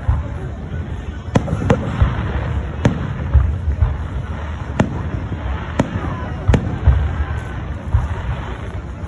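Fireworks going off: a string of sharp bangs about a second or so apart, irregularly spaced, over a continuous low rumble of further explosions.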